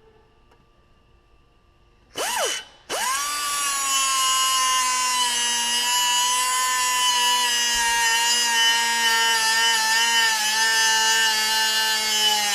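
Electric grinder cutting metal: it starts about two seconds in, stops for a moment, then starts again and runs steadily with a high whine whose pitch sags slightly under load, winding down near the end.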